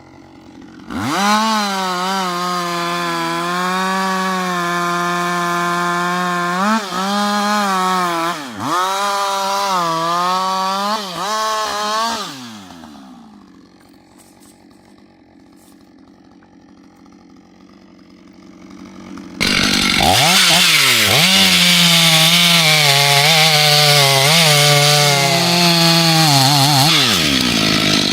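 Chainsaw running at high revs, its engine note dipping briefly several times as the chain bites into the wood, then dropping away to a low level. About two-thirds of the way through it revs back up and cuts hard again, with a loud rasp of chain tearing through wood over the engine.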